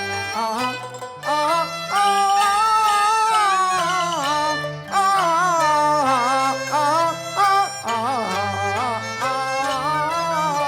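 Cantonese opera music: a sliding, wavering melody with vibrato carried over sustained low bass notes that step from pitch to pitch.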